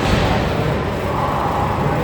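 Steady arena din at a youth ice hockey game, with a low rumble throughout and no single sound standing out.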